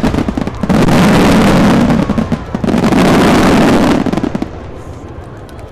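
Fireworks display: a dense, continuous barrage of shells bursting and crackling, loud, which dies away about four and a half seconds in.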